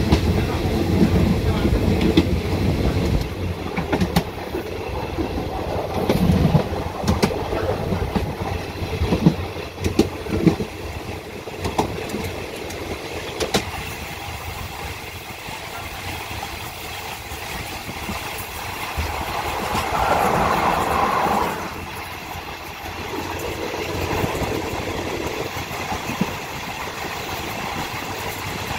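Train running along the track, heard from on board: a steady rumble with irregular sharp clicks from the wheels over the rail. About two-thirds of the way through, a louder sound lasts about a second and a half.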